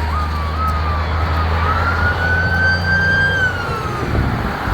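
Emergency-vehicle siren sounding: a single wailing tone that jumps up twice, rises and holds, then falls away near the end. Underneath is the steady low rumble of idling truck engines.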